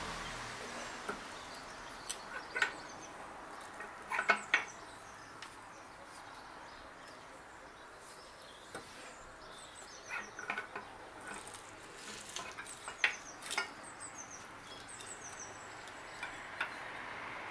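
Quiet outdoor background with short bird chirps scattered through it and a few sharp clicks.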